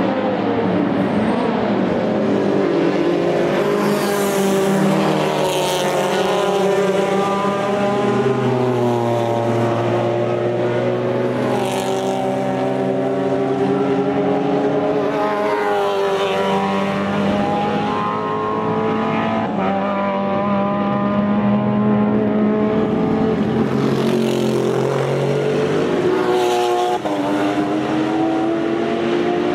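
Race cars with open exhausts running at full volume, several engines overlapping as they pass, each rising and falling in pitch through gear changes and lifts.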